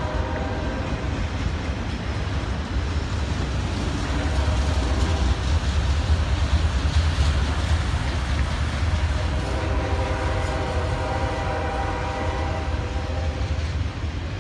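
Freight train locomotive horn sounding, briefly at the start and again in a long blast from about ten seconds in, over the low, steady rumble of the CSX train rolling by. The rumble swells in the middle.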